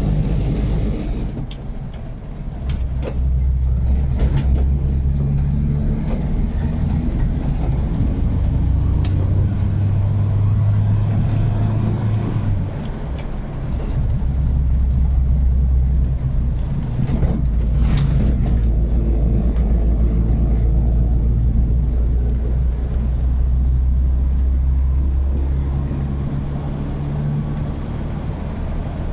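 Old Suzuki Katana's engine running on the move, a steady low drone that drops and then picks up again a few times as the car changes speed. A few sharp knocks sound over it, the clearest about two-thirds of the way through.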